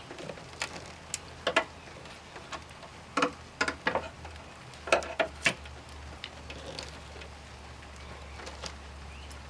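Irregular sharp clicks and light metallic clinks of hand work on the Jeep's parts as a lift-support strut is worked loose, coming mostly in the first six seconds over a faint low hum.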